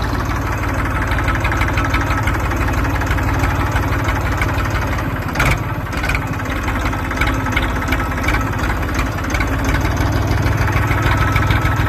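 Massey Ferguson tractor's diesel engine running steadily at idle, with a brief knock about halfway through. It is not accelerating, which points to a throttle or fuel fault rather than the freshly repaired starter.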